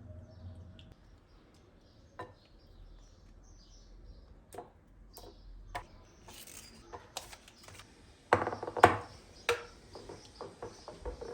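Kitchen handling sounds: scattered clicks and knocks of dishes and utensils, with a louder clatter about eight seconds in. Faint bird chirps sound in the background during the first half.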